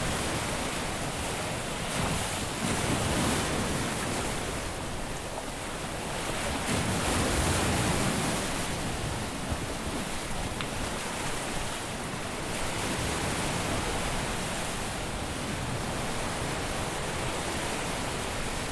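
Caribbean sea waves breaking and washing on a beach, a steady surf wash that swells as two waves break, about three seconds in and again about seven seconds in.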